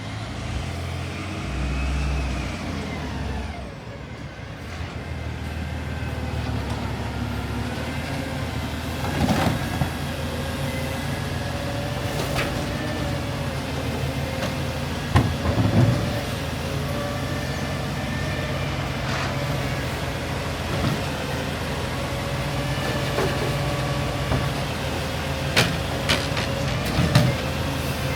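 Garbage truck engine running steadily with a constant whine over it, the engine note rising and falling in the first few seconds. Sharp clunks and knocks sound now and then, several of them near the end.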